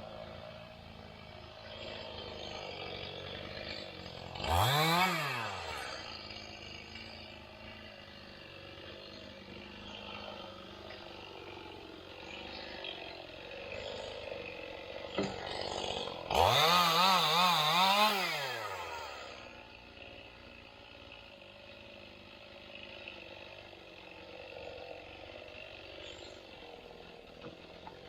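Two-stroke chainsaw idling, revved up to full throttle twice. The first rev is a short rise and fall about five seconds in. The second, near the middle, is held for about two seconds with its pitch wavering before it drops back to idle.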